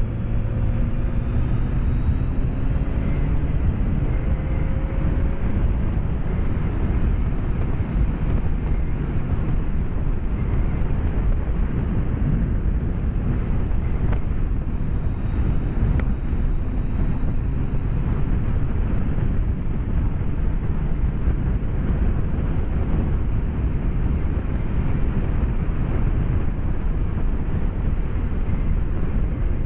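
Wind rush and road noise heard through a microphone inside a motorcycle helmet while riding a BMW K1200S, with the bike's inline-four engine note faintly rising in pitch over the first few seconds as revs climb.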